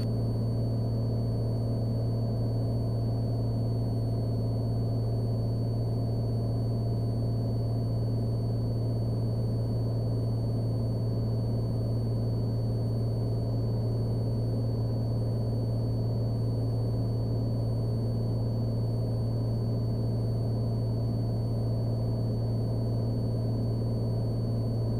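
Cessna Skylane's piston engine and propeller running steadily in flight, heard in the cabin as an even, low hum that does not change.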